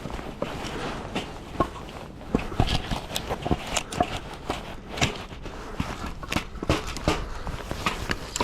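Irregular knocks and clatter of split firewood pieces being handled and stacked against one another, some louder clunks among many small clicks.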